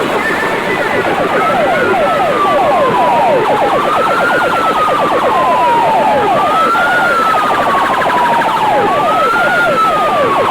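Siren-style sound effect played loud through a DJ sound system's speakers. It is a wail that rises quickly and then falls slowly, repeating about every two and a half seconds, with a fast pulsing chatter running through it.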